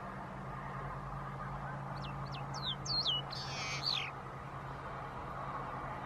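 A bird calling: four quick high whistled notes, each falling in pitch, then one longer, rougher call, all within about two seconds. They sound over a steady background hiss and low hum.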